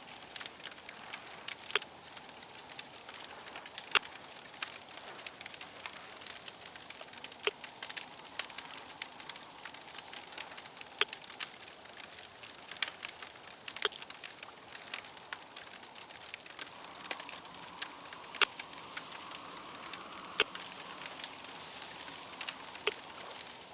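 Crackling fire: a soft, steady hiss broken by many sharp, irregular pops and crackles, swelling slightly in the second half.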